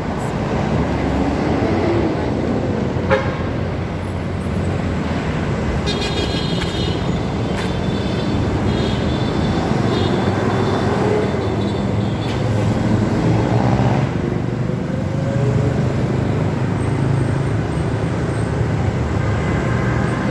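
Motorcycle running at riding speed, with its engine pitch slowly rising and falling, mixed with steady wind and road noise.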